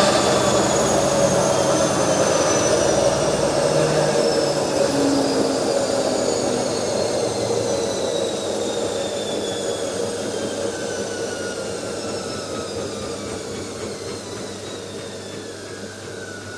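Washing machine drum spinning down at the end of its spin cycle: a steady mechanical running noise with motor whines that slowly fall in pitch as the whole sound gradually fades.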